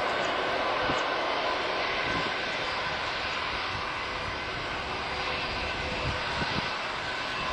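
Boeing 737-500 jet engines (CFM56-3 turbofans) running with a steady roar and a fan whine, easing off slightly over the first few seconds.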